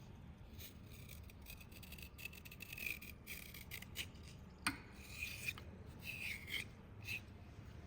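Wet black slate being crushed, with gritty scraping and crunching crackles and one sharp snap about halfway through.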